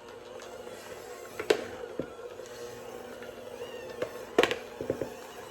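Electric mixer motor running steadily on bread dough, with several sharp knocks of the dough against the bowl or attachment.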